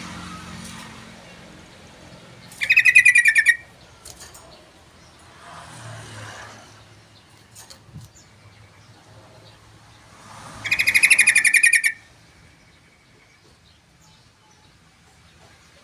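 Yellow-vented bulbul (trucukan) singing two short, fast, rapidly repeated phrases, each about a second long and several seconds apart.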